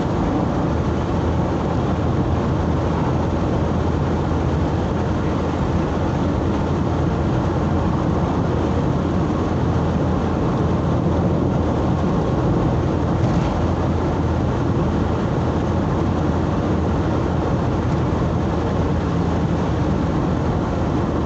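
Steady engine and road noise of a vehicle driving along a highway, a continuous low rumble with no breaks.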